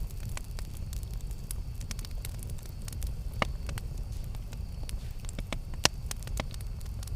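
Campfire burning: a steady low rumble of flames with frequent sharp crackles and pops, the loudest about three and a half and six seconds in.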